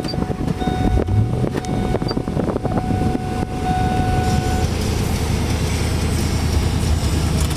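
2001 Ford F-150 SVT Lightning's supercharged 5.4-litre V8 running just after a push-button start, uneven at first and then settling into a steady idle from about four and a half seconds in. A thin steady whine sounds on and off over the first few seconds and then stops.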